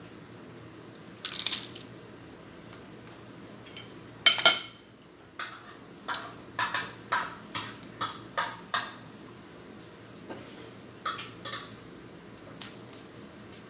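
Cutlery and dishes clinking during a meal: a spoon or fork knocking and scraping against plates and bowls in a string of short clinks. The loudest clink, with a brief ring, comes about four seconds in, then a quick run of clinks follows.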